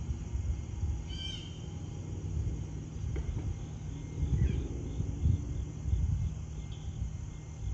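A bird gives a short call about a second in and a fainter chirp a few seconds later, over a low, uneven outdoor rumble.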